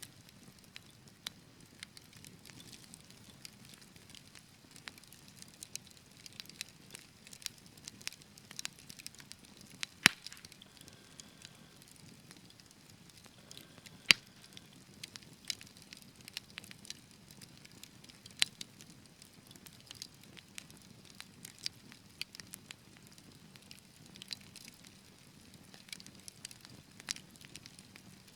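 Wood fire crackling in a fireplace: a steady soft hiss with frequent small irregular pops, and a few much louder snaps about ten, fourteen and eighteen seconds in.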